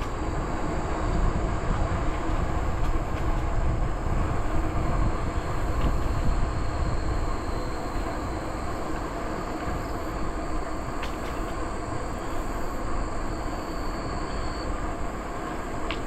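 Steady rushing wind on the microphone and tyre rumble from a bicycle riding along, with a few faint clicks.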